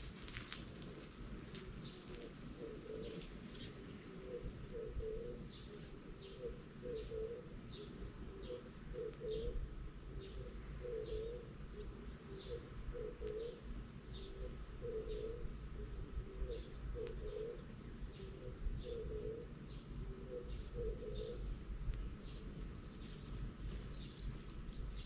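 A dove cooing over and over, a short phrase of low hoots about every two seconds. Through the middle a thin, high series of rapid notes runs alongside, and scattered sharp crackles come and go.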